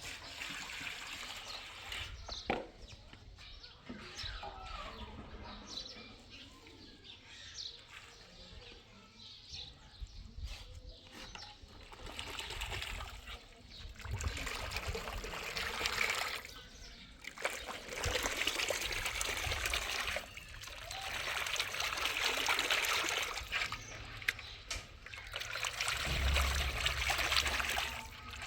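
Water trickling and splashing in uneven spells.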